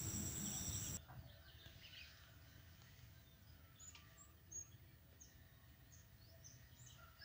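Faint steady background noise that cuts off abruptly about a second in, then near silence with scattered faint, short, high-pitched bird chirps.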